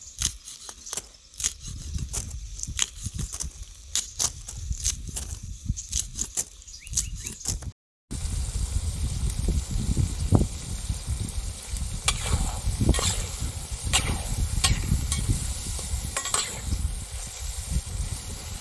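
Green grasshoppers stir-frying in a pan: a steady sizzle with many sharp clicks and scrapes of the stirring utensil against the pan. It cuts out for a moment about eight seconds in, then comes back louder.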